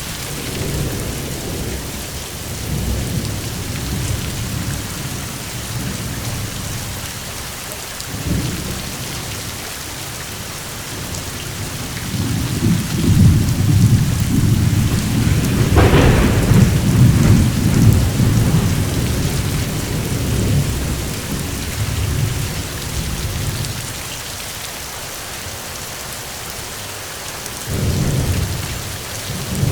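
Steady rain with rolling thunder. A long rumble builds about twelve seconds in, with a sharper crack at its peak, then fades, and another rumble starts near the end.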